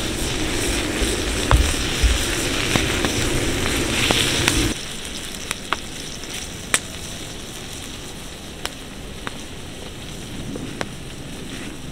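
Wood fire crackling, with scattered sharp pops over a steady hiss. About five seconds in, a louder, rumbling background drops away suddenly, leaving quieter crackling and occasional single pops.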